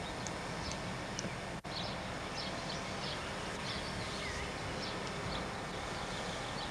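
Birds chirping, short high notes repeating irregularly over a steady hiss of outdoor background noise, with a brief dropout in the sound about one and a half seconds in.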